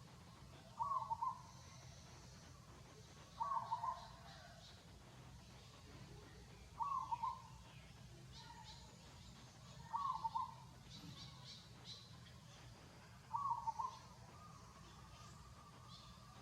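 A bird calling the same short call five times, about once every three seconds, with faint high chirps from other birds between the calls.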